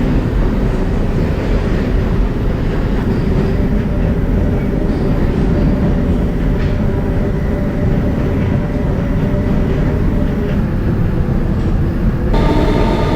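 R160B subway car with Siemens propulsion running through a tunnel, heard from inside the car: a loud, steady rumble of wheels on rail. About twelve seconds in, a whine of several steady pitches from the traction motors joins it as the train nears the station.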